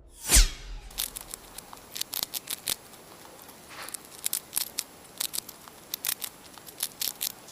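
A quick downward whoosh near the start, then a scattering of faint, irregular sharp clicks and ticks.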